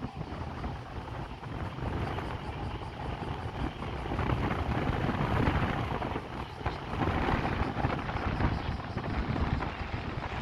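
Gusty wind buffeting the microphone, a rough, fluctuating rumble that swells and eases, from the strong winds ahead of an approaching typhoon.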